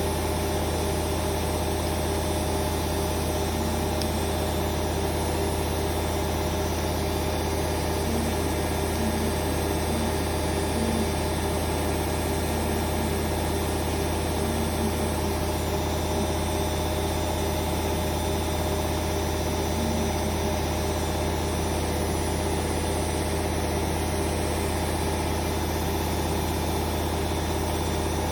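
Hoover Vision Dynamic washing machine on a spin-only cycle, its drum spinning steadily at high speed with a constant motor hum and whine.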